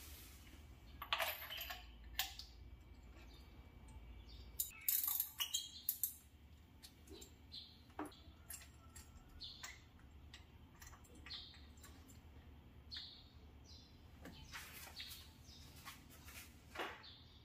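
Irregular light clicks and clinks, some in quick clusters, with a few short chirps among them.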